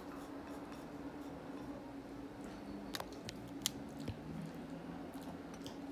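A person chewing a mouthful of rice, quietly, with two light sharp clicks about halfway through.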